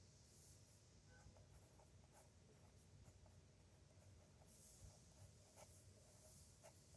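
Pen writing on paper: faint scratching strokes with small ticks as the pen touches down and lifts, in irregular bursts.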